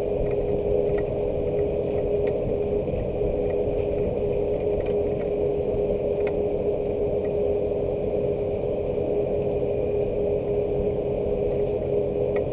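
A steady low mechanical hum with a constant pitched tone, like an engine or machine running, with scattered faint ticks of raindrops over it.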